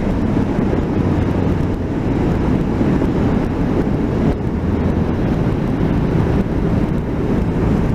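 Motorcycle riding at a steady speed: engine running under a heavy rush of wind noise, heard muffled through a microphone fitted inside a crash helmet.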